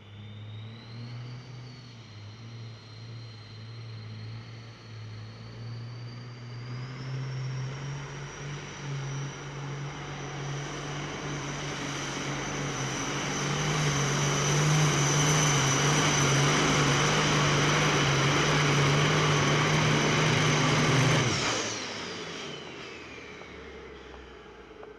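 Super stock diesel pulling truck under full load: the engine and its high turbo whine climb in pitch and grow louder for about twenty seconds, then the engine cuts off abruptly and the turbo whistle falls away.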